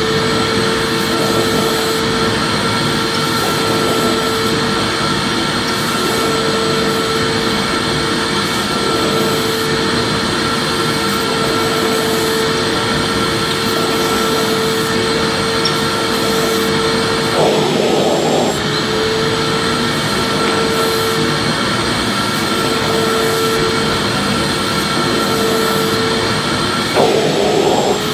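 Vacuum cleaner motor running steadily: a constant rushing hiss with a steady mid-pitched whine. The whine breaks briefly about two-thirds of the way through and again near the end.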